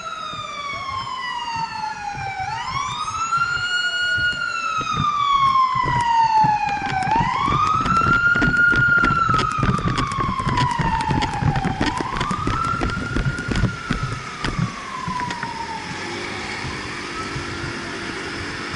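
Fire truck siren wailing, each cycle a quick rise in pitch followed by a long slow fall, repeating every four to five seconds, with a second siren overlapping at first. Engine and traffic rumble grows loudest about eight seconds in as the truck passes, and the siren fades away near the end.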